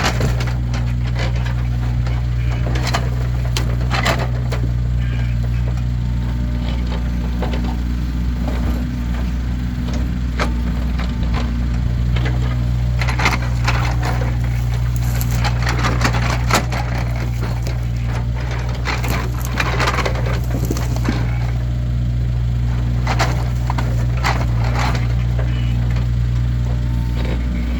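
Split firewood logs clattering and knocking against each other as they are tossed and stacked, at irregular intervals, over an engine idling steadily.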